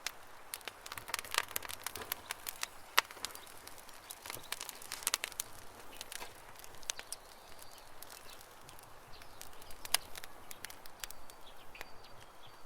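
Campfire crackling: irregular sharp pops and snaps from burning wood, the loudest about three seconds in and near ten seconds, with faint bird chirps in the background near the end.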